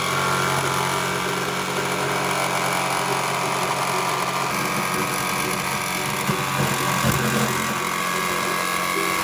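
Power tool running steadily, cutting a hole through the metal side of a school bus.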